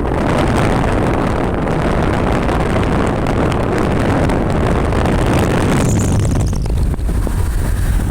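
Motorcycle under way: engine running with road and wind rush on the microphone. The higher hiss thins out about six seconds in.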